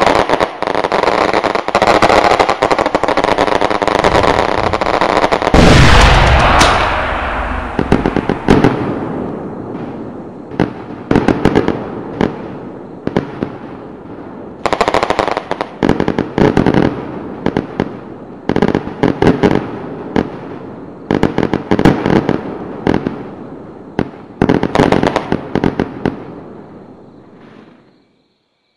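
Homemade electronic fireworks unit playing firecracker sounds: a dense continuous crackle of a firecracker string, one big low bang about six seconds in that fades away, then a series of short crackling bursts that stop shortly before the end.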